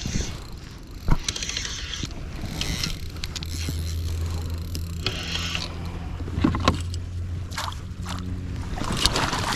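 Knocking and scraping of gear being handled on a kayak, with a sharp knock about a second in. A low steady motor hum runs from about three seconds in and fades out near seven and a half seconds.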